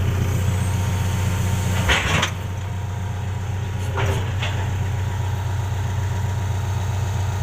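Diesel engine of a track-type hydraulic excavator running steadily, with two short noisy bursts about two and four seconds in.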